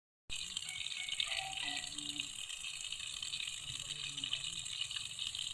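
Steady rush of running water, starting a moment in after a brief gap of silence.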